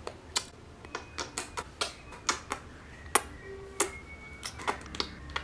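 A series of irregular sharp clicks or taps, about three a second, with a couple of faint brief tones in between.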